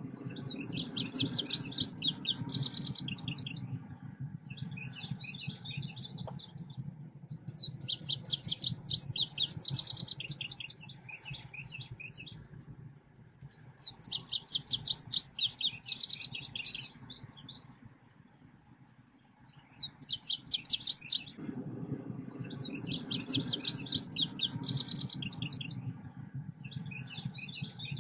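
Looped lure recording of a songbird known as 'selendang biru': repeated phrases of fast, high chirping, each a few seconds long and coming about every six seconds, with a low hum underneath.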